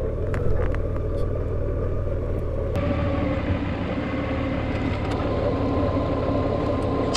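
Car driving at low speed, a steady engine and tyre rumble; the road noise turns louder and hissier about three seconds in.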